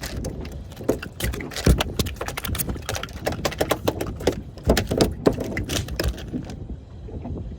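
A freshly landed flathead being handled and unhooked on a boat: a burst of irregular knocks, clicks and rattles lasting several seconds, stopping about six and a half seconds in. Underneath is a steady low rumble of wind and water.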